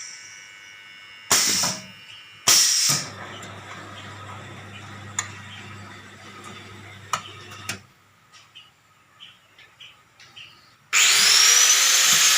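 Semi-automatic four-nozzle liquid filling machine at work: two short hissing bursts, then a low hum with a few sharp clicks and some softer ticks. Near the end a loud motor starts suddenly, its whine rising in pitch.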